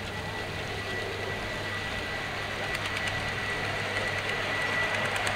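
A rail vehicle running and growing gradually louder as it approaches, with a steady thin whine over a low hum; rapid faint ticking from the wheels sets in about halfway through.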